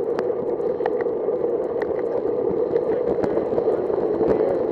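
Steady wind rush over the microphone of a cyclist's camera while riding, with scattered light clicks.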